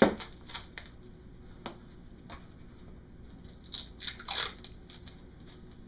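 Masking tape being pulled from the roll and pressed around fiberglass packing on a motorcycle muffler core. A knock at the start and a few light crackles and taps are followed, about four seconds in, by a louder rasping pull that ends in a falling squeak.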